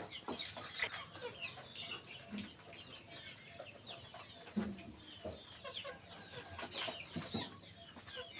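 Chickens clucking, with many short high calls scattered throughout and a few lower clucks.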